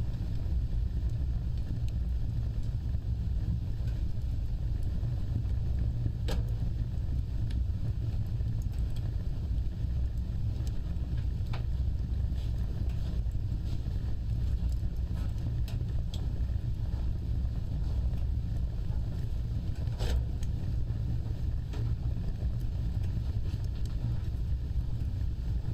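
Wood fire burning in a fireplace: a steady low rumble of flames, with a few sharp crackles scattered through it, the clearest about six and twenty seconds in.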